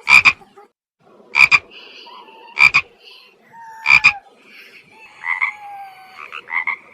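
Frogs croaking: four loud, short double croaks about 1.3 seconds apart, then softer croaks near the end, over a faint chorus of other frogs.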